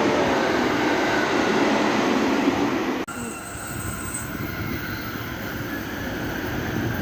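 Electric train running past with a loud rumble and rattle; about three seconds in it cuts off abruptly to a quieter train rumble with faint high-pitched squealing tones.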